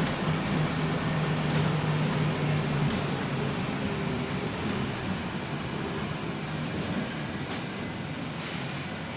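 Bus running, heard from inside: a steady engine or drivetrain hum over road noise that eases off about three seconds in. A few short, sharp high ticks come through at intervals.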